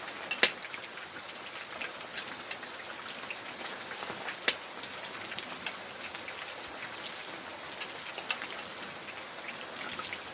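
Battered pale chub deep-frying in hot oil: a steady sizzle full of small crackles, with a few sharper pops of spattering oil.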